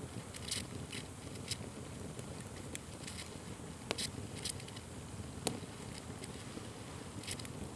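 Wood fire burning, with a steady low rush and scattered sharp pops and crackles, the loudest about four and five and a half seconds in.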